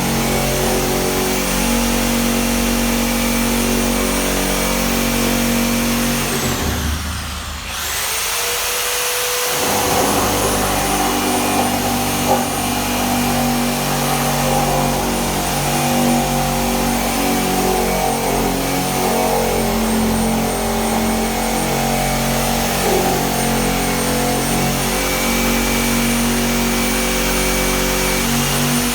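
A power tool's electric motor running steadily with a high whine. About seven seconds in it winds down and dips, then spins back up and runs on.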